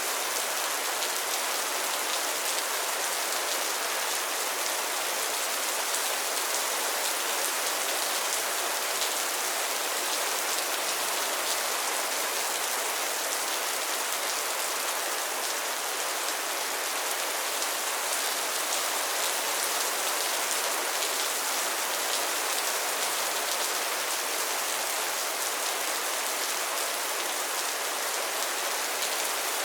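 Steady rain falling on a pond and its lily pads, a dense even hiss of drops hitting water and leaves.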